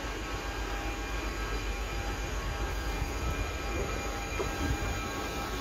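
Two coupled Alstom Régiolis regional multiple units pulling out of the station at low speed and passing close by. The running noise is steady and mostly a low rumble, with a few faint steady tones above it.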